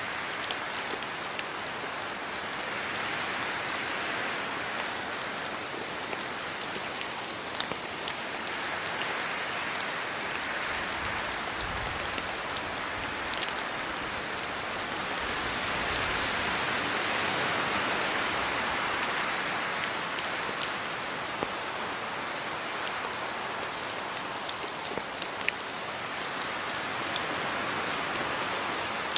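Steady rain falling on surfaces, with scattered sharp drop splashes. The downpour swells and eases, heaviest about halfway through.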